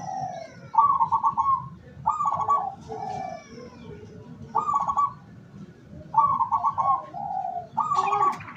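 Zebra dove (perkutut) cooing: about five repeated calls, each a quick run of clipped notes that ends in a lower drawn-out coo. Fainter, higher chirps of small birds sound behind them.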